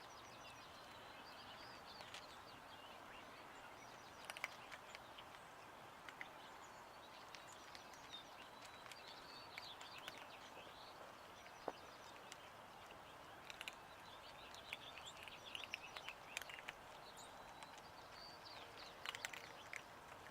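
Faint bird chirps and calls scattered over a quiet outdoor hush, with a few soft ticks.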